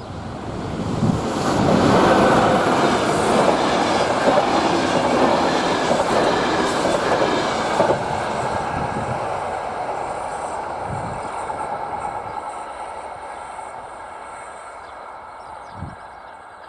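A passenger train running past over the rails, its wheel and rail noise building quickly, loudest for several seconds, then fading away as it recedes.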